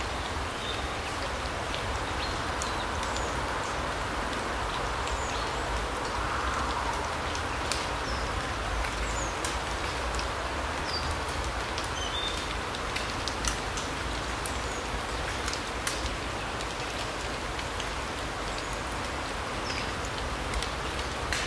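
Forest ambience: a steady rushing hiss, with scattered short ticks and brief high bird calls every few seconds.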